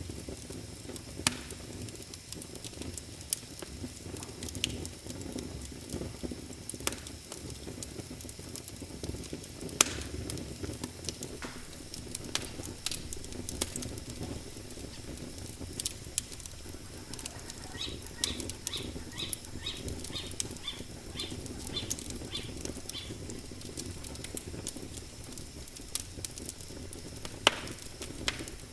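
Wood fire crackling, with a steady low rumble and scattered sharp pops and snaps. About two-thirds of the way through comes a run of quick, evenly spaced high chirps lasting a few seconds.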